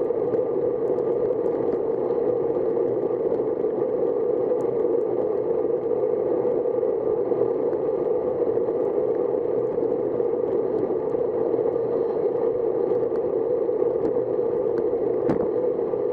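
Steady rushing noise of a bicycle ride on wet roads: wind over the microphone mixed with tyre hiss on wet tarmac. A single sharp click comes near the end.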